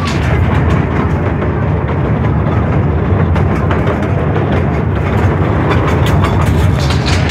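Small ride-on train carriage running along its track: a steady, loud rumble with a light rattle.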